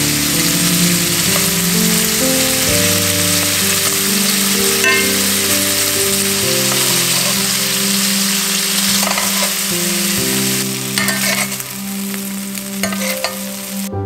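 Peeled shrimp sizzling as they fry in hot oil in a pan, with a few short clicks of metal tongs turning them in the later part; the sizzle cuts off abruptly just before the end.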